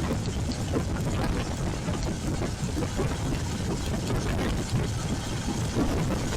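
Royal Enfield Classic 350's single-cylinder engine running under way, with a steady haze of wind and road noise over it.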